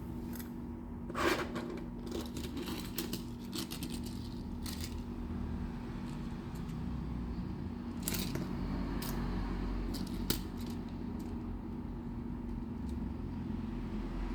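Scattered light clicks and short scrapes of small diecast toy trucks being handled, over a steady low hum.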